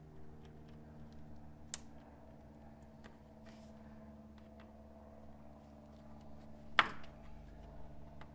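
Small clicks and clacks of parts and hand tools being handled during an engine teardown, with one loud sharp knock about seven seconds in, over a steady low hum.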